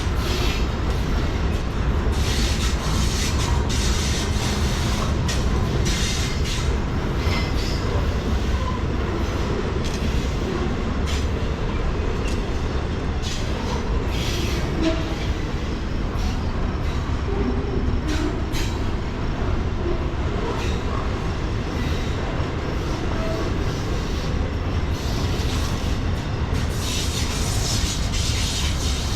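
Freight train rolling past, a steady rumble of cars on the rails with frequent sharp wheel clicks and occasional brief squeals.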